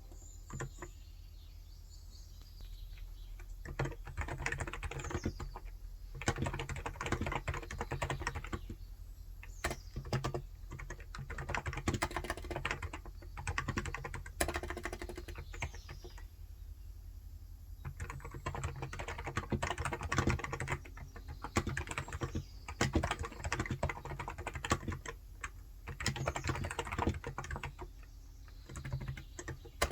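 Typing on a Cox Endeavor electrostatic capacitive (contactless) keyboard with 35 g switches: runs of soft, rapid keystrokes broken by a few short pauses. Faint bird chirps in the background.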